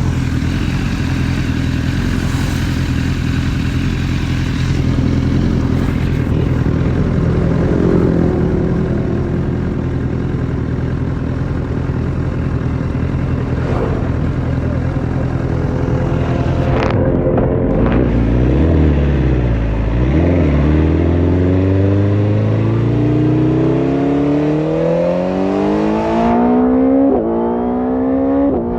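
BMW S1000RR inline-four running through an Akrapovic carbon exhaust. It holds a steady note for the first two-thirds, then dips and climbs hard in pitch, with sudden drops at the upshifts near the end.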